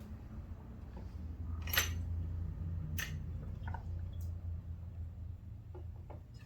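A few light metallic clinks of small carburetor parts being handled, over a steady low hum.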